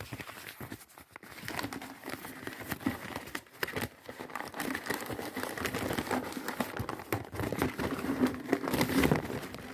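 Crinkling and rustling of a paper vacuum-cleaner dust bag being handled and unfolded, with many small crackles, loudest near the end.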